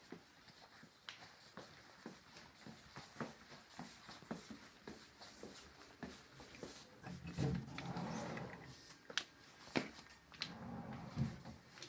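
Irregular light clicks and knocks, with two longer, louder low rumbling stretches, one past the middle and one near the end.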